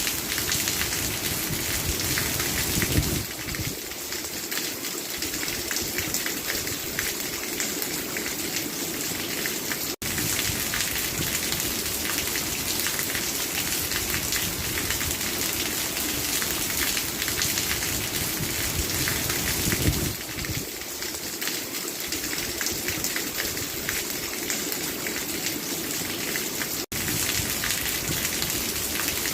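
Steady rain falling and pattering on surfaces, a dense even hiss, with two split-second dropouts partway through.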